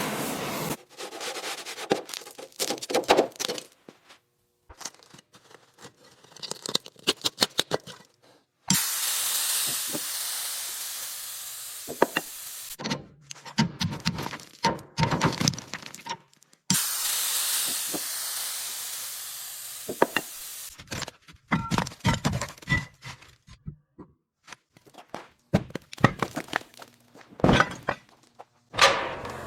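Restoration work on an old tractor: repeated bursts of knocking and clattering, broken twice by steady hissing that lasts about four seconds each time.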